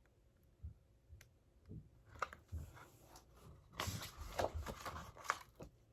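Rustling and light taps of a book being handled as its page is turned, busiest about four seconds in.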